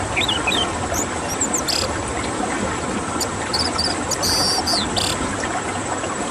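Scattered short bird chirps and quick whistled glides over a steady rushing, hissing background.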